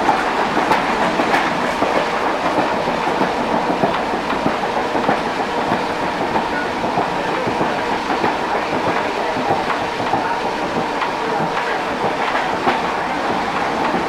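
Mumbai suburban local train, an electric multiple unit, running at speed, heard from its open doorway: a steady rush of wheel and running noise with scattered clicks of the wheels over rail joints.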